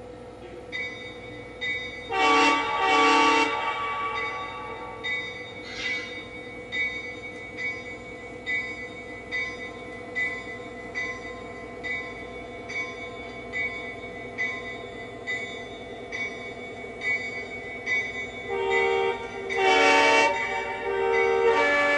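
Sound system of a Lionel Legacy SD70ACE O gauge model diesel locomotive: two short horn blasts about two seconds in, the usual signal for proceeding, then steady diesel engine sound with a regular beat about once a second as it runs. The horn sounds again, in several blasts, near the end.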